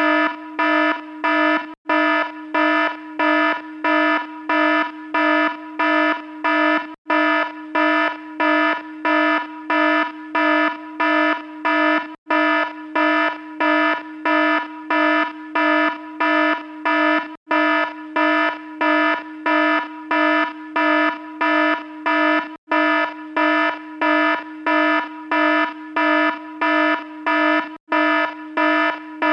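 Alarm sounding continuously: a low, buzzy tone pulsing on and off about twice a second. Every five seconds or so there is a brief full gap in the pulsing.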